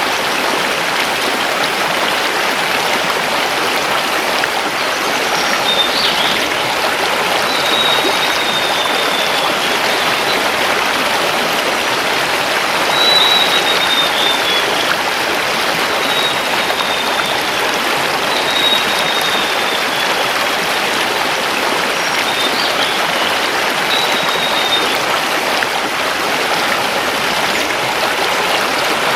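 Mountain river rushing steadily over stones. A bird calls faintly over it with short, high, slightly falling notes, repeated every second or two through the middle of the stretch.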